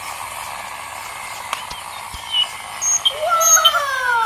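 Cartoon sound effects: a few short high chirps, then a long whistle-like call with overtones that falls steadily in pitch.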